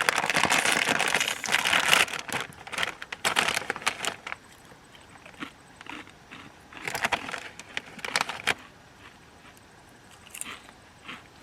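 A foil chip bag crinkling and crackling as it is handled and opened. The sound is dense for the first two seconds, then comes in scattered rustles, with another burst about seven seconds in.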